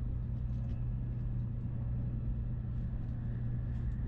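Steady low rumble and hum of a Shinkansen bullet train running at speed, heard from inside the carriage.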